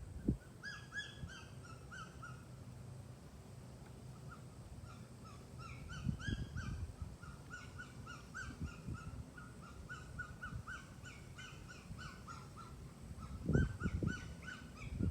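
Rapid series of short, high-pitched animal calls repeated several times a second, in two runs with a short break, over a few low handling thumps.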